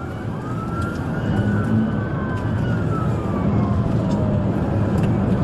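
Police siren wailing in slow rises and falls, over a steady rumble of engine and road noise from police cruisers in pursuit.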